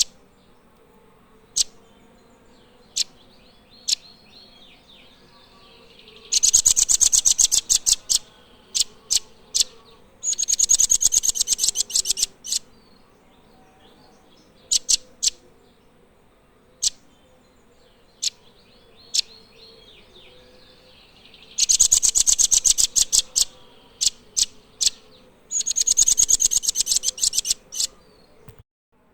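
Nuthatch calling: single sharp, high notes a second or two apart, broken by four fast, loud trills of rapidly repeated high notes, each lasting about two seconds.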